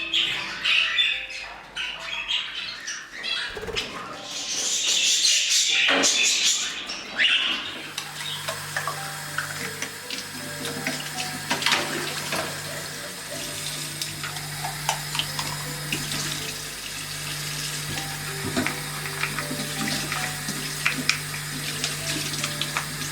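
Water running, as from a tap into a sink, with a steady low hum from about eight seconds in.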